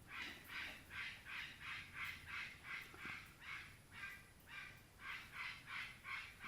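A parrot calling over and over in short, harsh, raspy notes, about three a second, that sound like scraping: its imitation of a dog's barking.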